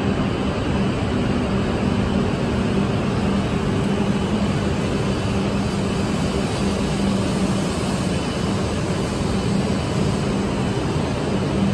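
Shinkansen bullet train at a station platform: a steady rumble with a low hum held throughout.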